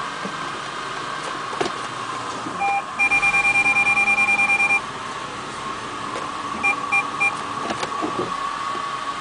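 Audi A8 engine idling roughly on a cold start, a steady hum. Over it, electronic warning beeps: a single beep, then a fast run of beeps lasting about two seconds, then three short beeps later on.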